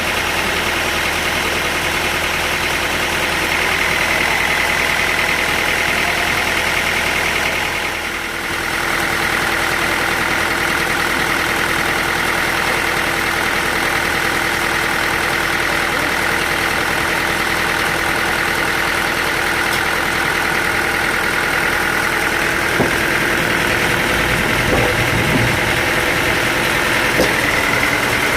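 Sawmill machinery running steadily with a constant high whine over a dense mechanical noise. It dips briefly about eight seconds in, and a few light knocks come near the end.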